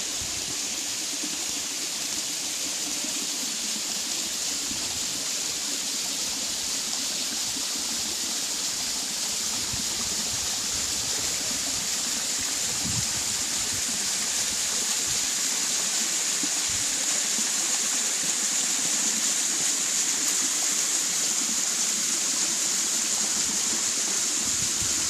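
Waterfall's water rushing steadily, a continuous hiss that grows slightly louder over time.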